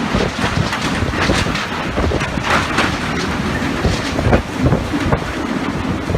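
Typhoon wind gusting hard, buffeting the microphone in a loud, unbroken rumble that surges and eases.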